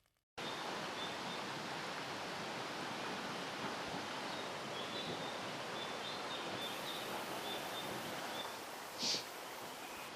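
Mountain stream water running with a steady rush, with faint bird chirps over it and one short, louder high chirp about nine seconds in.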